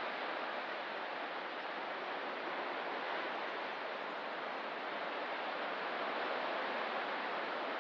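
Ocean surf as a steady, even wash of water noise, with no single wave breaking out from it.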